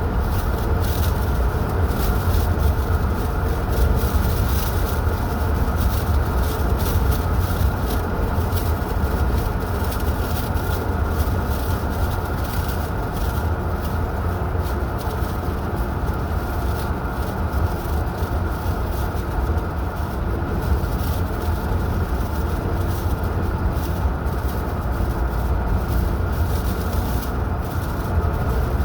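Steady low rumble of road and wind noise from a car driving along, with frequent brief crackles over it.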